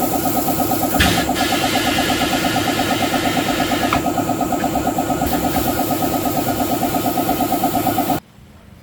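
A machine's engine running steadily with a fast, even pulse, then cutting off abruptly about 8 seconds in.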